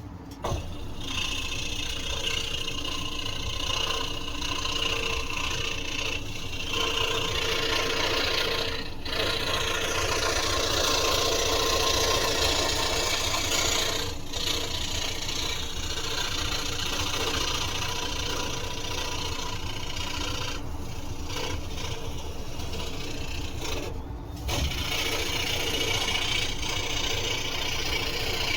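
Scroll saw running and cutting through wood, starting up about half a second in, with a few brief dips in the cutting sound.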